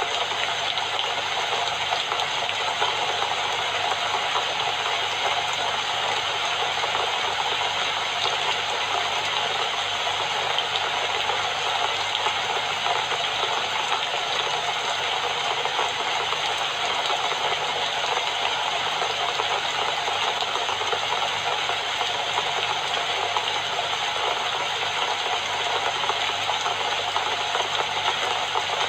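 Steady rain falling in a dense, even patter, with no breaks or single drops standing out.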